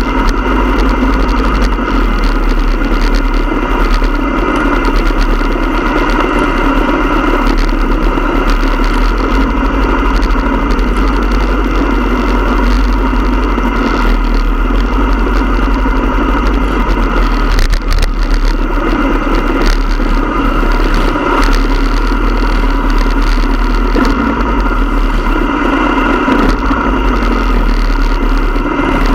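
Motorcycle engine running at a steady, unchanging pace, a constant loud drone.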